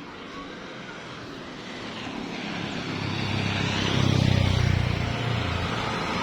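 A vehicle engine growing louder, peaking about four seconds in.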